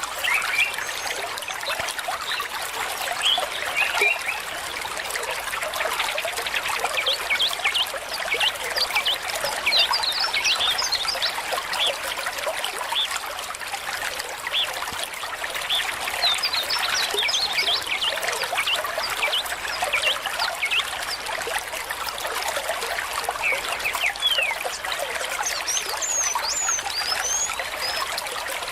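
A small stream trickling and babbling, full of quick little bubbling plinks over a steady rush of water.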